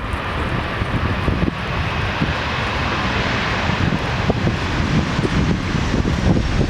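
Jet airliner's engines in a steady rush that swells toward the middle and eases off, with a faint high whine in the second half. Wind buffets the microphone underneath.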